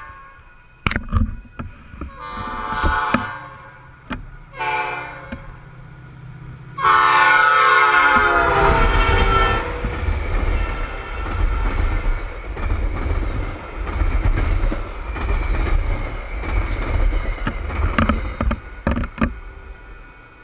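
Metra passenger train's horn finishing the grade-crossing signal: a long blast, a short one, then a final loud long blast that drops in pitch as the train passes. Then the steady rumble and wheel clatter of the bilevel cars rushing past at express speed for about ten seconds, with a few sharp clacks near the end as the train moves away.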